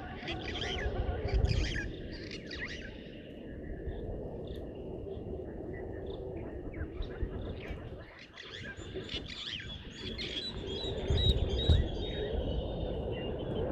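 Wild birds chirping and calling, many short high notes overlapping, over a steady low rumble.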